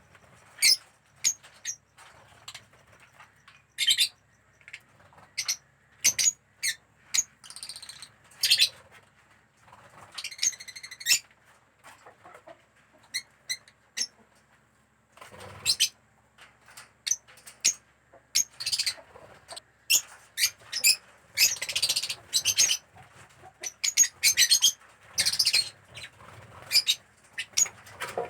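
Pet lovebirds chirping in many short, sharp, high-pitched calls, scattered at first and coming thicker and louder in the second half.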